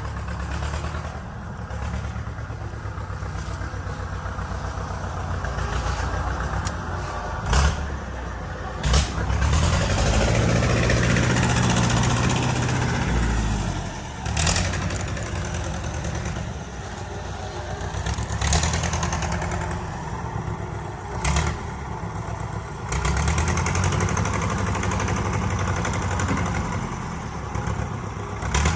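A vehicle's engine running as it drives over rough ground, its level rising and falling, with several sharp knocks and clunks along the way.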